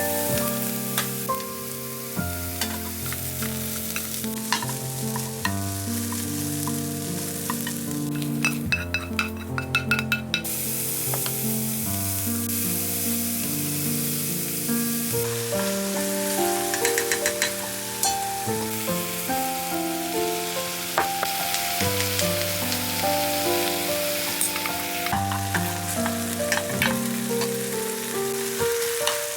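Food sizzling and frying in a pan while it is stirred, with scattered clicks of the utensil against the pan, under background music.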